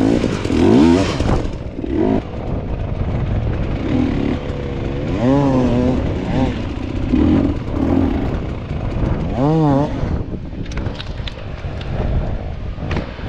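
Dirt bike engines revving in repeated bursts, the pitch swinging up and down as the riders work the throttle to claw up a hard enduro obstacle.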